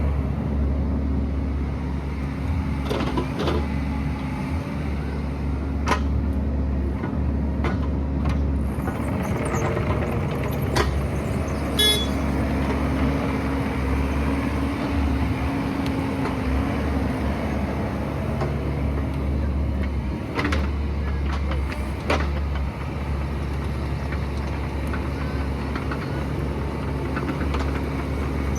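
Excavator engine running steadily under work, with scattered sharp knocks and a brief high squeal about twelve seconds in.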